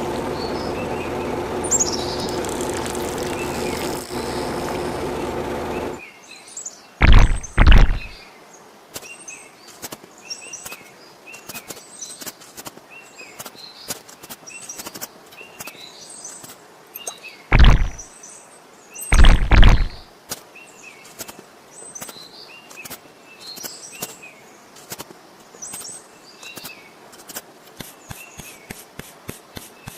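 A steady hum with several fixed tones stops about six seconds in. Then birds chirp throughout, with four heavy thuds, two about seven to eight seconds in and two about eighteen to twenty seconds in, and a fast run of ticks near the end.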